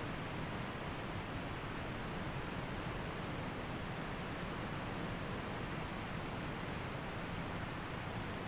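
Waterfall and creek water rushing in a steady, even roar-like hiss with no changes.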